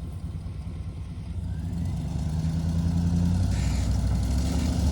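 Truck engine running and growing steadily louder as it approaches, a low, even drone.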